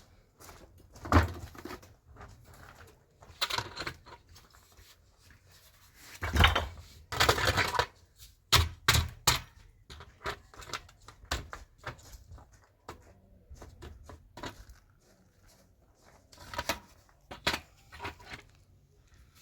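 Irregular knocks, clatters and rustling of objects being handled. The loudest strokes come about a second in and between about six and eight seconds in.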